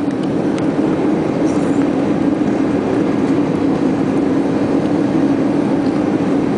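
Steady rush of airflow and jet engine noise inside an Airbus A320's cabin on final approach with the landing gear down, with a constant low drone underneath.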